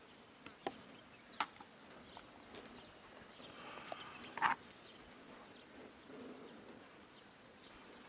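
A few short, sharp taps over a faint background. The loudest comes about four and a half seconds in.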